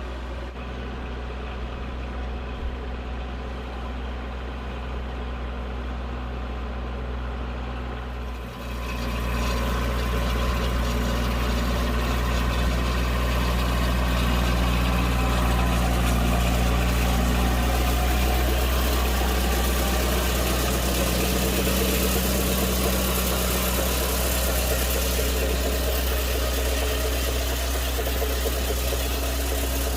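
Tractor engine running steadily while fertilizer is spread on a rice paddy. About eight seconds in the engine dips briefly, then runs louder and fuller.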